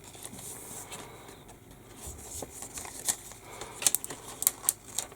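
Decal sheets and their packaging being handled: soft paper rustling, then a run of short sharp crinkles and clicks in the last two seconds.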